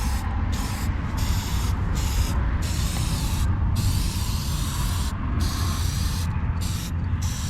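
Aerosol spray-paint can hissing in repeated bursts, with short breaks between strokes, as a tag is sprayed onto a wall. A low rumble runs underneath.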